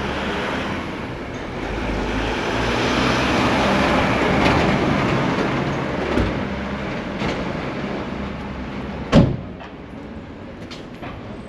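A train passing on the seafront railway, its rumble swelling over the first few seconds and then fading away. About nine seconds in there is a single sharp knock.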